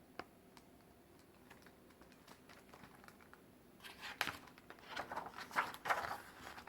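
Paper rustling as the pages of a picture book are handled and turned: a few light clicks, then a short spell of rustling and crinkling in the last few seconds.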